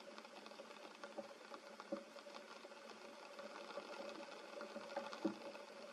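Light rain pattering and dripping on forest leaves: many small ticks, with a few louder drops, the loudest about five seconds in, over a faint steady hum.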